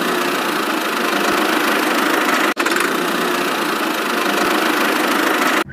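Mini DIY tractor running with a steady, thin engine-like buzz that has no deep bass. It breaks off briefly about two and a half seconds in.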